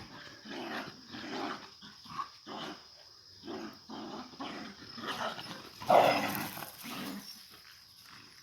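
A dog giving a run of short growls and barks, several a few seconds apart and the loudest about six seconds in.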